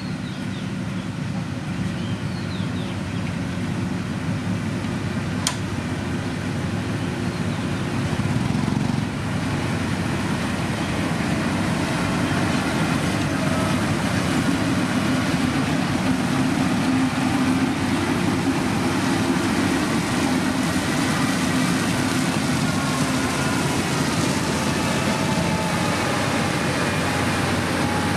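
Heavy motor grader's diesel engine running steadily, a little louder in the second half, with one sharp click about five seconds in.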